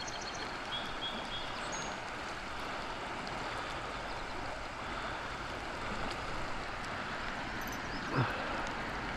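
Steady hiss of flowing creek water and falling rain, with one brief knock about eight seconds in.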